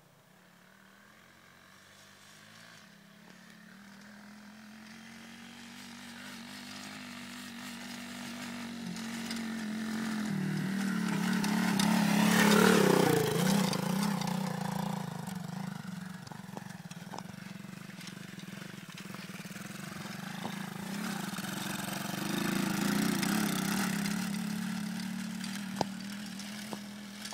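125cc dirt bike engine running as the bike rides toward and past: it grows steadily louder, passes close about 13 seconds in with a drop in pitch, fades off, then comes nearer again a few seconds before the end.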